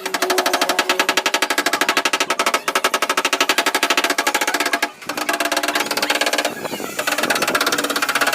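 Rapid, even mechanical rattle of a power tool at work, about a dozen strikes a second, pausing briefly twice and changing pitch near the end.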